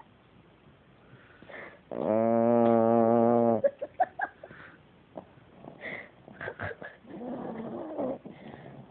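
Pomeranian snoring loudly in its sleep: one long, steady, pitched snore about two seconds in, then a few short sounds and a quieter, rougher snore near the end.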